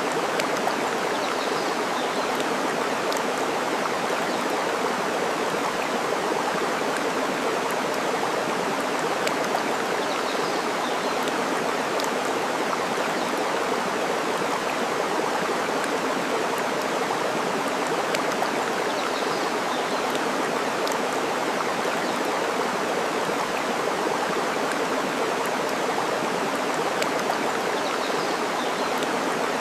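Steady rushing of flowing water, with a few faint crackles from a burning wood fire and faint bird chirps now and then.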